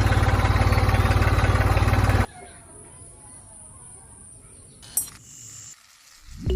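A motor running with a fast, even pulse that cuts off abruptly about two seconds in, followed by a faint background and a single sharp click near the end.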